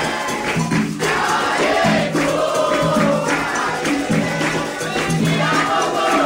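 Candomblé ritual music: a group singing a chant over steady percussion with shaken rattles.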